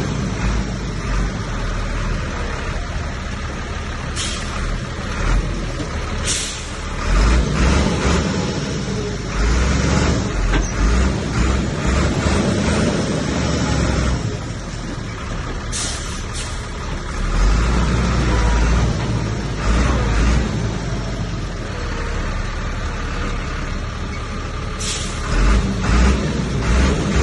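Heavy diesel earthmoving machinery working: engines running steadily, rising and falling with load, with a few short sharp hisses.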